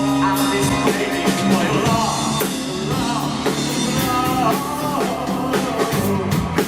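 A live rock band playing, with drum kit, bass and a sung melody line.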